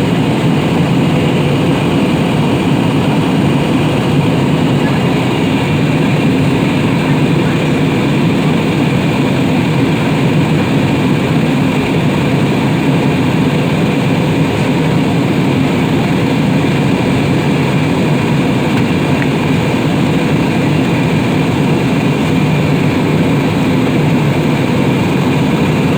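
Steady roar of an airliner's engines and airflow heard inside the passenger cabin in flight.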